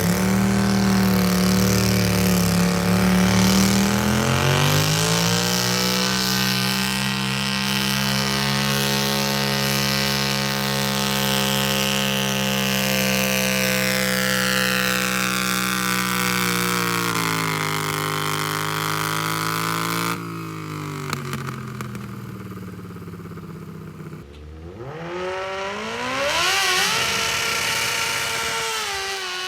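A modified pulling tractor's engine revs up a few seconds in and holds at high revs for a long steady stretch, as in a pull run. Its pitch sags, and the sound cuts off abruptly about two-thirds of the way through. Near the end an engine revs up again with rising pitch.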